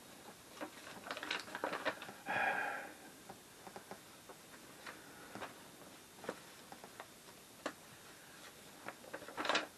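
Handling noises from the pieces of torn paper label and the beer-kit can: scattered light clicks and taps, with a short rustle about two and a half seconds in.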